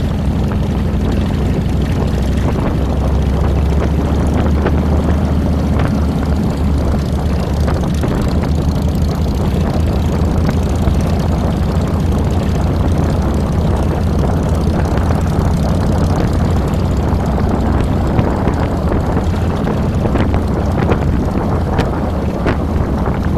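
Harley-Davidson Fat Boy's V-twin engine running steadily, a low, even engine note with rushing noise above it, heard close up from the handlebars.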